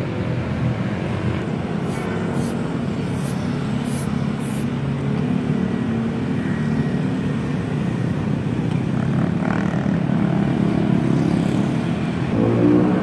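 A motor-vehicle engine running steadily, a low pitched hum that grows louder and higher near the end. A few light clicks about two to four and a half seconds in.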